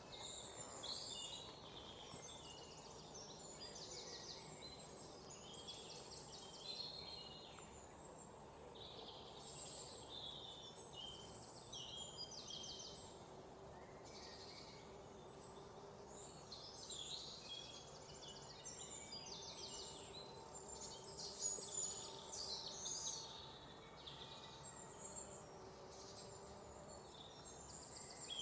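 Several songbirds chirping and singing at once, short overlapping phrases and quick trills following one another throughout, over a faint steady background hiss.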